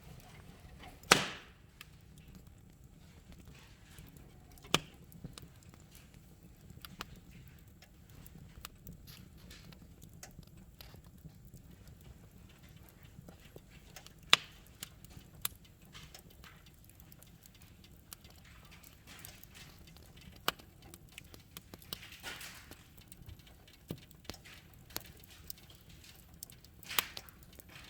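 Wood fire in a fireplace crackling, with sharp pops at irregular intervals, the loudest about a second in, near 5 s and near 14 s, over a faint low hum.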